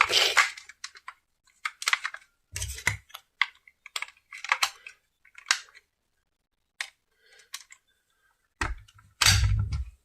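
Things being handled close to the microphone: irregular clicks and knocks, with heavier thumps at the start, about three seconds in and near the end.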